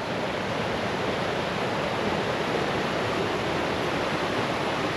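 Steady, even rush of a river's flowing water, loud enough that speech must be raised over it.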